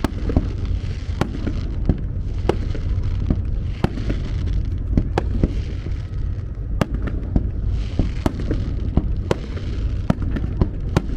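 Aerial fireworks display: sharp bangs of bursting shells going off irregularly, two or three a second, over a continuous low rumble.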